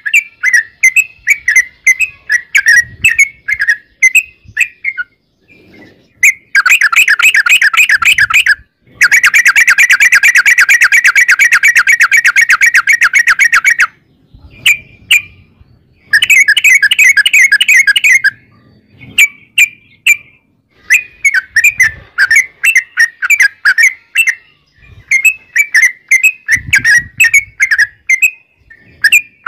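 Yellow-vented bulbul (trucukan) singing: quick bubbly chirped phrases, broken in the middle by three long, very fast rolling trills, the longest lasting about five seconds.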